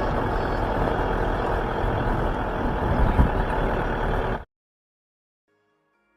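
A vehicle on the move, heard from inside: a steady, loud rumble of engine and road noise with one thump about three seconds in. It cuts off abruptly partway through.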